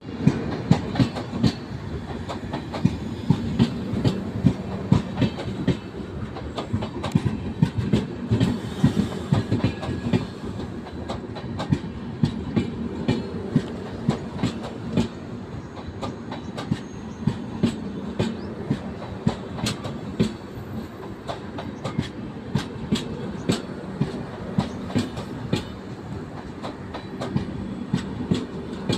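A train running along the track, its wheels giving a continuous clickety-clack of repeated sharp clicks over a steady rumble.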